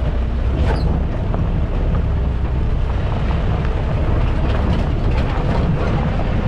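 Steady low rumble of a vehicle in motion, heard from on board, with faint rattles over it.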